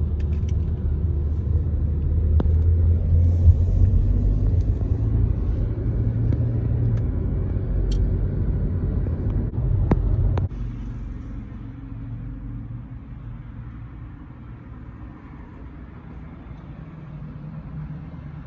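Steady low vehicle rumble that drops off sharply about ten seconds in, leaving a quieter rumble, with a few sharp clicks over it.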